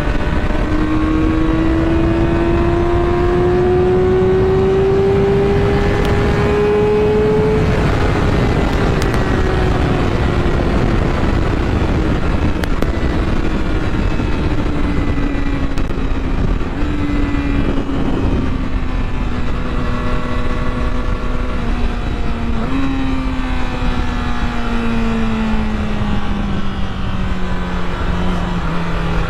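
Motorcycle engine running under load, its pitch climbing steadily for about eight seconds and then slowly winding down, with two brief jumps up in pitch as it is downshifted. A constant rushing noise runs underneath.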